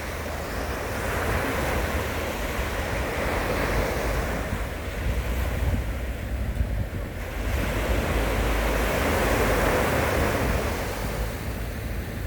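Sea waves breaking and washing on the shore, the surf swelling twice with a lull between, with wind rumbling on the microphone.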